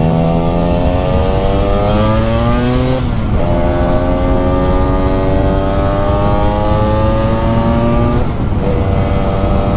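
Lambretta scooter's two-stroke single-cylinder engine accelerating under way, its pitch climbing through a gear, dropping at a gear change about three seconds in, then climbing again until another change near the end.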